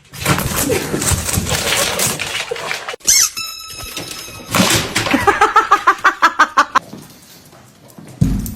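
Dogs scuffling, then a high squeal about three seconds in and a fast run of short squeaks, about eight a second, fading near the end.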